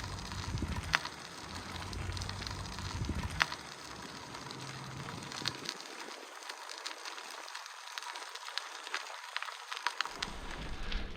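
Crackling and sharp ticking from a bicycle riding over a rough path, with wind rumbling on the microphone for the first half, which dies away about six seconds in.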